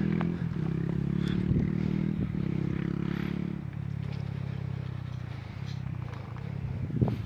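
Honda Rebel 250's single-cylinder engine idling steadily through an aftermarket slip-on muffler, settling a little quieter from about halfway through.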